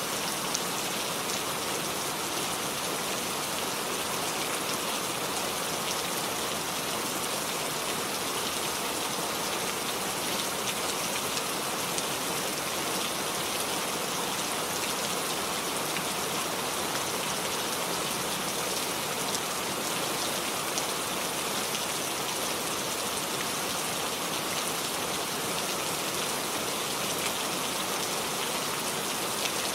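Steady rainfall: a dense, even hiss of rain with many individual drops ticking on surfaces.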